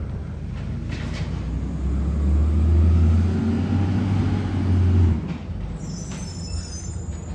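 Garbage truck's diesel engine running, its low rumble swelling for about three seconds before dropping back, with a brief high-pitched squeal near the end.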